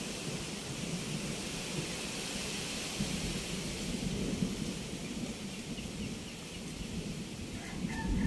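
Storm of strong wind, a steady hiss over a low rumble that rises and falls in gusts.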